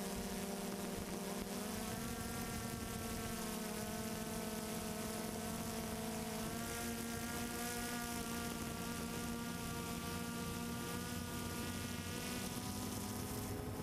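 Multirotor drone's electric motors and propellers buzzing steadily, the pitch of its tones shifting a couple of times.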